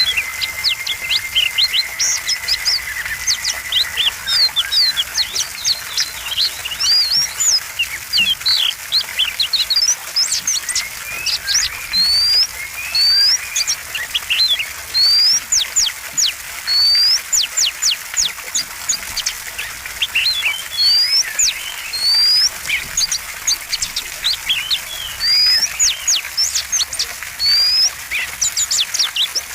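Oriental magpie-robin (kacer) in full song: a varied run of loud, sharp chirps and repeated upward-slurred whistles every second or two. A thin, steady high tone sounds under it for the first few seconds.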